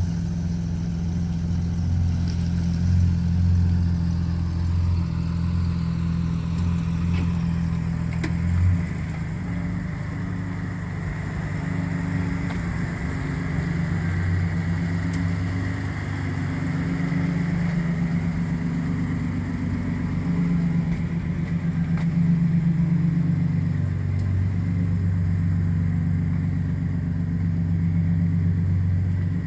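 2002 Ford F-150's 4.2-liter V6 running at idle, its engine speed rising and falling a little at times.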